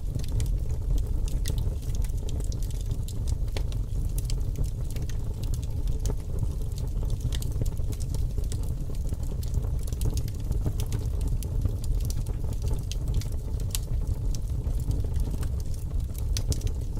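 Fire crackling: a steady low rumble under many small, irregular pops and snaps.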